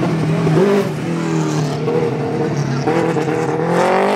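Rally car engine revving hard, its note dipping and rising with gear changes and throttle, then climbing steeply near the end as the car accelerates.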